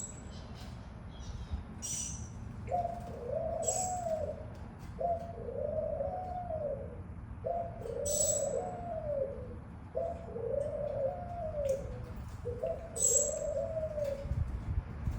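A dove cooing: five repeated arched coo phrases, each about two seconds long, coming at a steady pace. Several short, sharp high chirps are heard in between.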